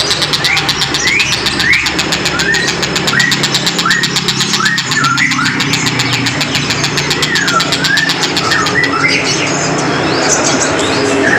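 Tengkek buto kingfisher calling with a run of short, sharp rising whistled notes, then a few notes that dip and rise near the end. An engine runs steadily underneath.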